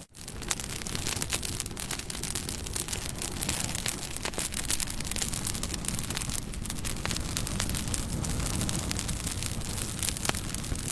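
Campfire burning: steady crackling with many sharp pops and snaps over a low rush. The sound drops out for an instant at the very start.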